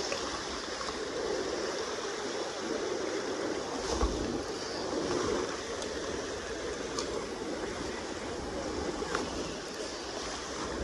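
Steady rushing of the Kenai River's current, with a few faint clicks.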